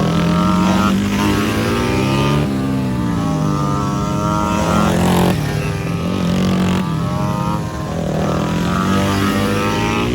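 Several motorcycle engines revving hard around a race circuit, their pitch climbing and dropping again and again as the bikes accelerate, shift and pass, with more than one bike heard at once.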